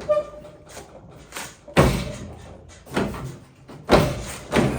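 Steel cab door of a square-body Chevrolet pickup being swung shut against its latch, two loud slams about two seconds apart with lighter knocks between, while the door is being lined up.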